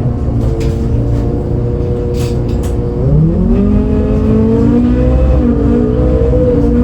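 The MAN D0836 LOH 63 diesel engine of a 2008 MAN Lion's City A37 bus heard from inside, running steadily and then revving up about three seconds in, its pitch rising and then holding higher. That day the engine had an unusual sound, which the uploader had never heard from a MAN before.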